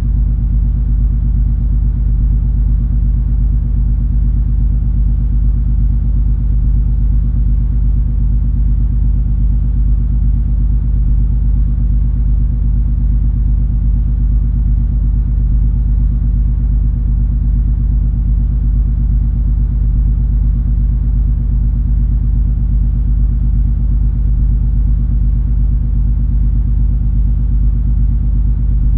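Steady low rumble and hum of the MS Color Fantasy cruise ferry's engines while under way, an even drone with no change in pitch or level.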